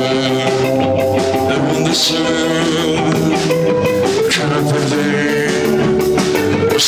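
Rock band music: guitar over a drum kit, with cymbal crashes about every two seconds.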